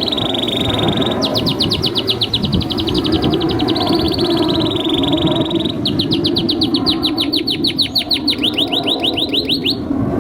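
Domestic canary singing: a held high whistle, then two long, rapid trills of repeated sweeping notes, the second slowing slightly before the song breaks off near the end.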